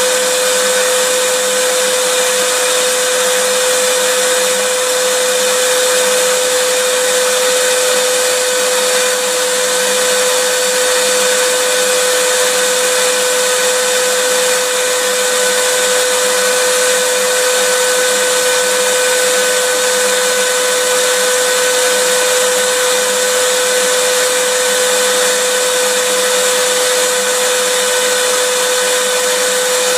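Vacuum cleaner running steadily, a continuous motor hum with one held pitch over a hiss of rushing air, unchanging throughout.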